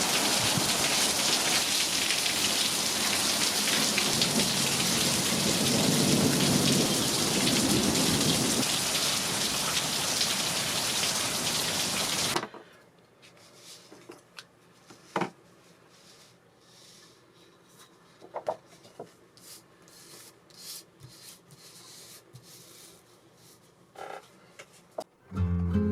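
Steady heavy rain, with a low rumble of thunder swelling and fading a few seconds in. About halfway through it cuts off abruptly, leaving a quiet stretch with a few scattered faint clicks and taps.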